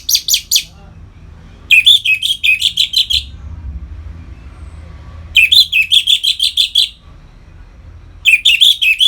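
Orange-headed thrush singing its loud ngeplong song in phrases of quick, repeated high notes, each phrase lasting about a second and a half with pauses of one to two seconds between. A faint low hum can be heard in the gaps.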